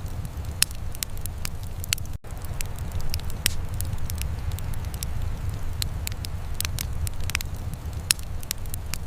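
Wood fire crackling, with irregular sharp pops and snaps over a steady low rumble. The sound cuts out for an instant about two seconds in.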